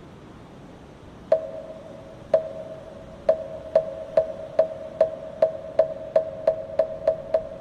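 Moktak, the Korean Buddhist wooden fish block, struck with a mallet in the temple rhythm. It begins about a second in with slow strikes a second apart, then quickens to about three hollow, pitched knocks a second.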